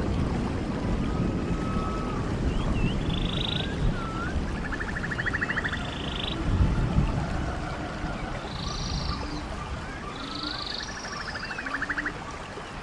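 Stream water running steadily, with wild birds calling over it: short whistled notes and rapid buzzy trills repeating every few seconds.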